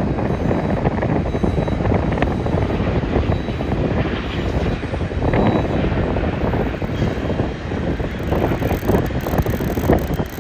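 Jet airliner engine noise as an aircraft lands on the runway, with wind buffeting the microphone.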